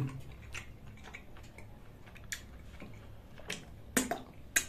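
A person chewing and biting into a curried chicken drumstick: scattered soft mouth clicks and lip smacks, with a few sharper smacks near the end.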